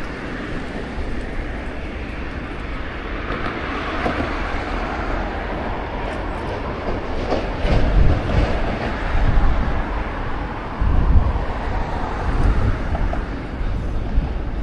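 Strong gusty wind buffeting the microphone over a steady outdoor rumble, with the heaviest gusts about eight and eleven seconds in.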